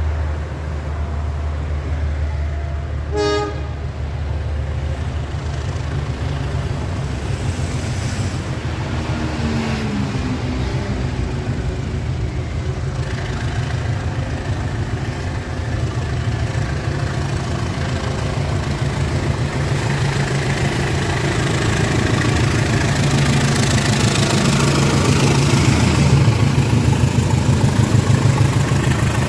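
Diesel locomotive hauling a passenger train pulling away from a station: the engine runs with a steady low drone, a short horn toot sounds about three seconds in, and the engine and rail noise grow louder over the last third as the train gathers speed.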